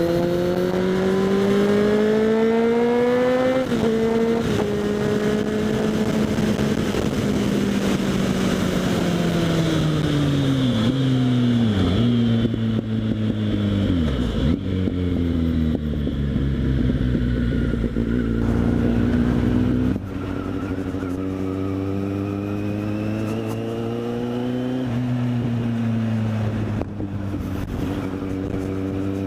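Kawasaki Z800's inline-four engine through a LeoVince SBK aftermarket exhaust, heard from the rider's helmet: revs rise under acceleration, drop at a gear change a few seconds in, then fall away as the bike slows, with two quick dips in pitch around the middle. It settles at low, steady revs, then rises briefly and drops again near the end.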